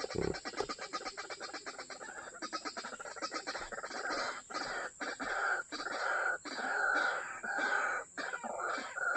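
White-breasted waterhens calling in a fast, repeated series of harsh notes, which become longer and louder from about four seconds in. A low thump comes right at the start.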